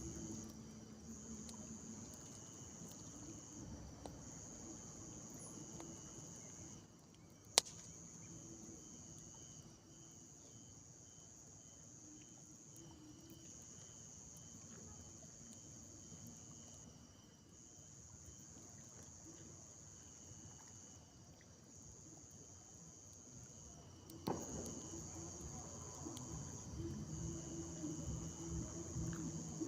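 Crickets trilling steadily, the high trill pausing briefly every few seconds. A single sharp click comes about seven and a half seconds in, and a thump near the end is followed by low rustling.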